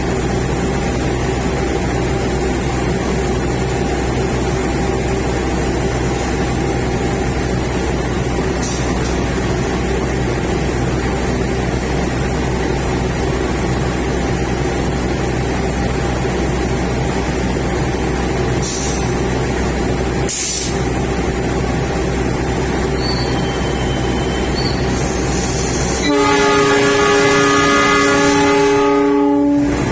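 A train's steady running hum at a station, with a few brief clicks. Near the end a train horn sounds one long blast of about three seconds, then cuts off sharply.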